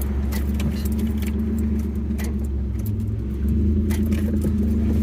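Steady low rumble of a car engine idling, with light clicks and jingling of keys.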